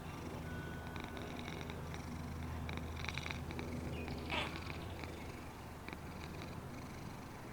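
Domestic cat purring steadily, with a few faint clicks and one short rising high-pitched call about four seconds in.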